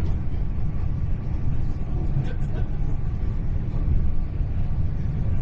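Cabin noise inside a Hitachi Class 800 intercity train running at speed: a steady low rumble from the wheels on the rails, with a few faint clicks a little over two seconds in.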